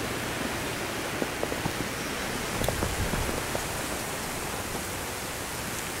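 Steady hiss of wind and snow in a snowstorm, with a few faint crunches of footsteps in deep snow between about one and a half and three and a half seconds in.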